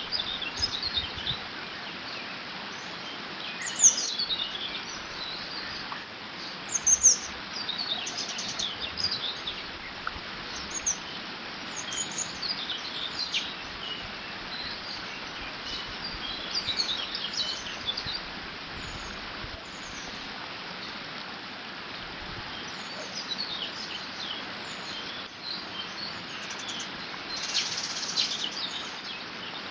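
Water running through a beaver dam as a steady rush, with small birds singing short phrases of high chirps every few seconds.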